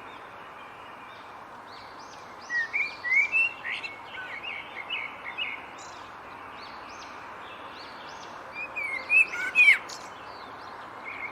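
Small birds chirping in two short runs of quick, high twittering notes, the second run the loudest, over a steady outdoor hiss.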